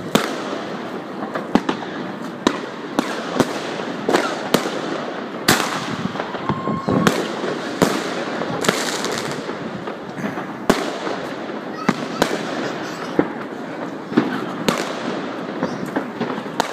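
Fireworks and firecrackers going off all around: sharp bangs every second or so at irregular intervals, over a steady background of more distant crackling and bangs.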